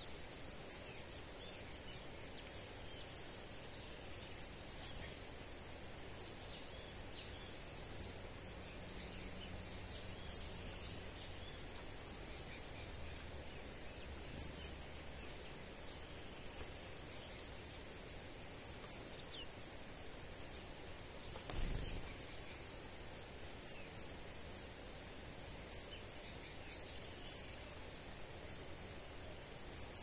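Small birds calling in short, very high chirps, scattered irregularly a few at a time, over a steady high hiss. One brief knock about two-thirds of the way through.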